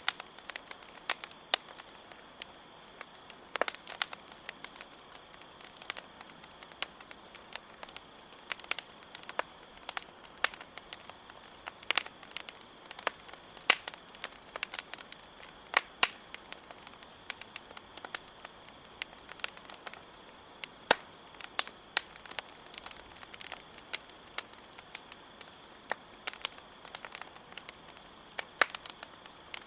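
Wood campfire crackling, with constant irregular pops and snaps and a few louder cracks among them, over a steady high chirring of crickets.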